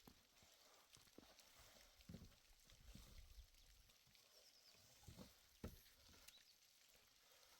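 Near silence: faint outdoor ambience with a few soft, low thuds scattered through it.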